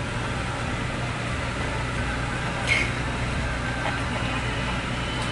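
Vehicle engine idling, heard from inside the cabin as a steady low hum, with one short, sharp high sound about halfway through.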